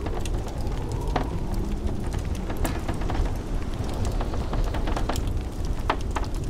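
Wood fire crackling in a fireplace with frequent, irregular sharp pops, over the steady low rumble of blizzard wind.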